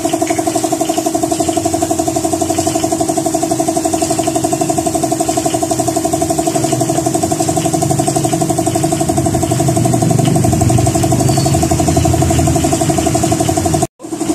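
A small engine running steadily at idle with an even, fast-pulsing hum. There is extra low rumble partway through, and the sound drops out abruptly for a moment near the end.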